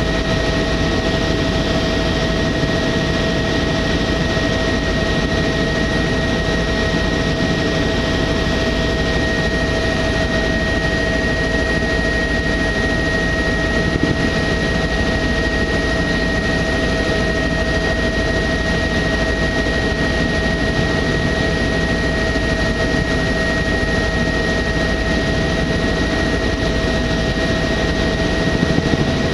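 Tour helicopter in flight: steady engine and rotor noise with a constant high whine over it.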